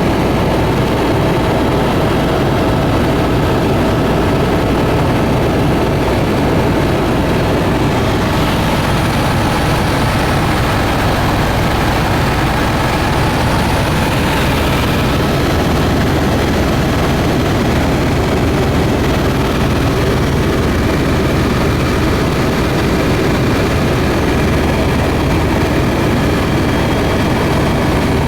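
Steady drone of a sightseeing airplane's engines in flight, holding an even level and pitch.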